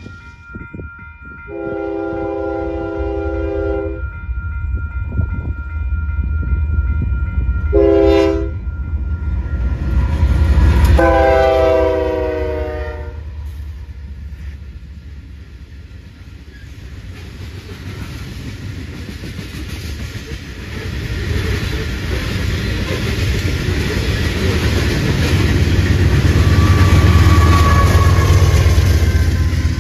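Union Pacific freight train's locomotive horn sounding a long blast, a short one and another long one that drops in pitch as it passes, then the steady rumble and clatter of coal cars rolling by, swelling again near the end as a locomotive in the train goes past.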